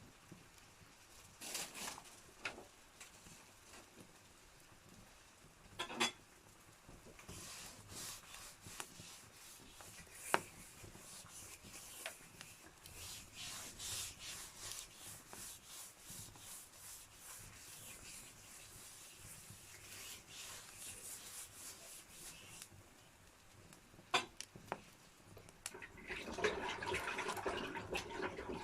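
Wood fire crackling in a fireplace: a run of small, quick crackles with occasional sharper pops, thickening into a fuller hiss and crackle near the end.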